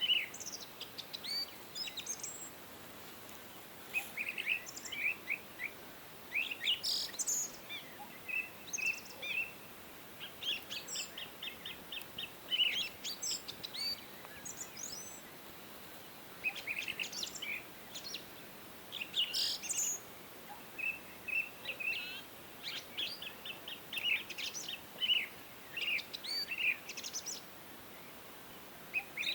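Several small songbirds singing and chirping: bouts of quick high chirps and short rapid trills, with brief pauses between them, over a faint steady background hiss.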